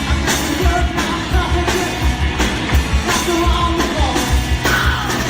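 Loud live band music with a singer over a steady, heavy drum and bass beat, rock in style.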